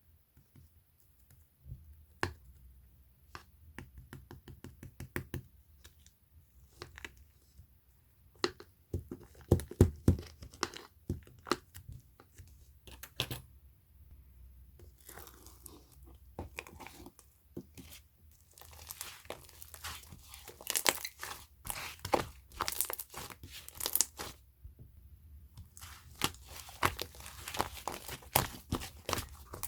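Chewy pearl slime being worked by hand, giving runs of sticky crackles, pops and tearing sounds with short pauses between them. The crackling is thicker and louder in the second half.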